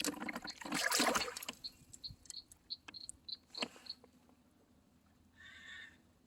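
Water splashing and dripping around a kayak as a fish is handled at the surface, for about the first second and a half. Then a run of about eight short, high chirps, roughly three a second.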